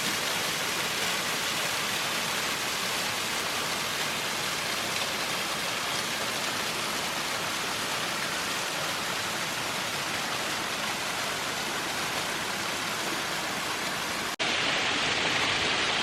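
Steady rush of a rain-swollen brook cascading over rocks in a series of small waterfalls. About fourteen seconds in it breaks off for an instant and comes back louder and brighter.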